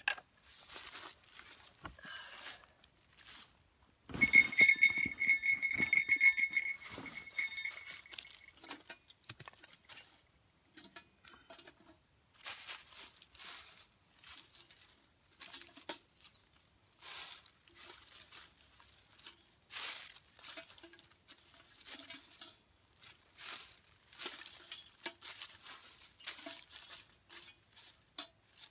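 Scattered light snaps and clicks of small twigs being broken and handled. About four seconds in, a louder high-pitched buzzing sound lasts about four seconds.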